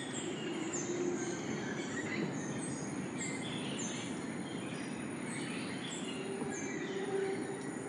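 Rainforest ambience: several birds calling, with a high, thin falling note repeating about once a second over a steady background rush.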